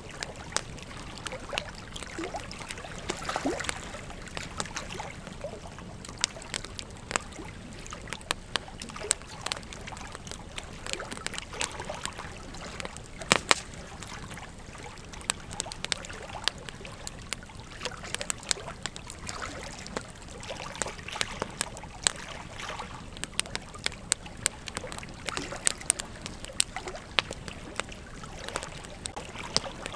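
Campfire burning: wood crackling with frequent irregular sharp pops over a steady hiss. The loudest pop comes about halfway through.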